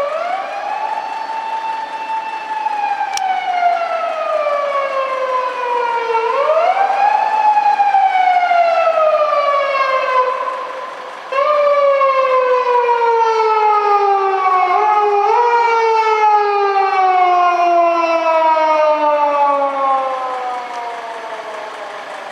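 Japanese police patrol car's electronic siren wailing: each tone rises quickly, then falls slowly over about five seconds, repeated several times. Near the end the tone glides down and fades as the siren winds down.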